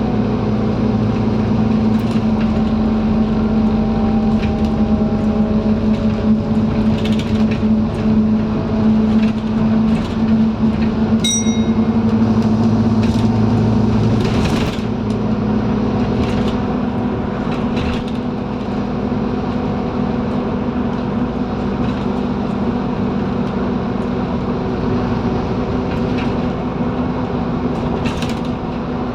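Scania N230UD double-decker bus heard from on board: its five-cylinder diesel engine drones steadily under way, with interior rattles and knocks. A single chime rings about eleven seconds in, and the engine note quietens a few seconds later.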